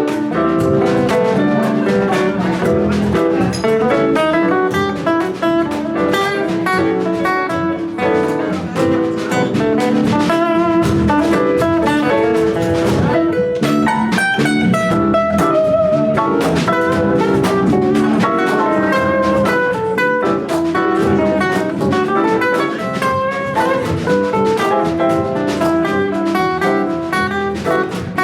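Live band playing a loud, steady groove, with guitar lines over a drum kit.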